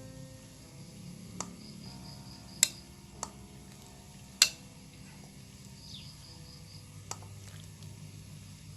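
Sharp clinks of a utensil striking cookware, five in all, the second and fourth the loudest, over faint steady music and high insect chirping.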